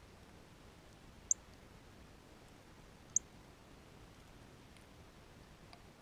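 Two short, sharp, high-pitched chip calls from a small bird, about two seconds apart, with a fainter chip near the end, over faint hiss.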